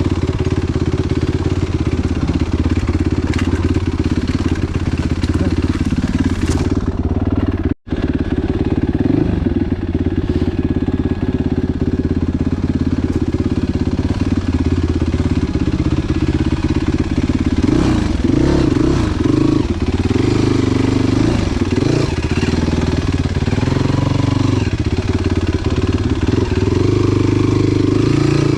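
Enduro motorcycle engine running under way, its pitch shifting with the throttle, and more varied revving in the second half. The sound drops out for an instant about eight seconds in.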